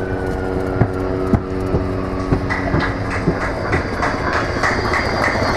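Avro Vulcan XH558's four Rolls-Royce Olympus jet engines on its landing approach: a high whine slowly falls in pitch over steady lower tones. From about halfway in, a rough, fluctuating jet roar swells. A few sharp knocks come in the first half.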